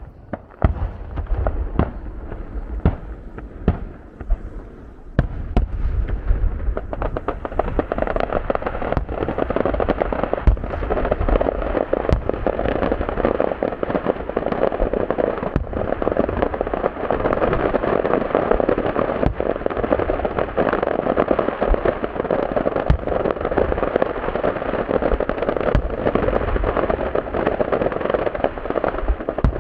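Fireworks display: separate bangs of bursting shells for the first few seconds, then from about seven seconds in a dense, continuous crackle of many bursts.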